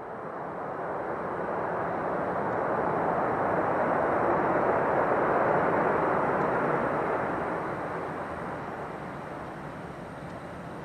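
Jet noise from an Airbus A330-300 and its two Rolls-Royce Trent 700 turbofans flying past on landing approach: a broad rushing sound that builds, peaks about five to six seconds in, then slowly fades.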